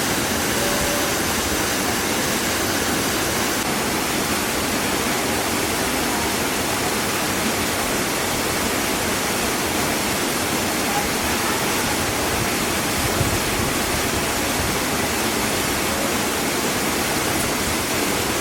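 Waterfall rushing steadily into its pool, a constant even roar of falling water.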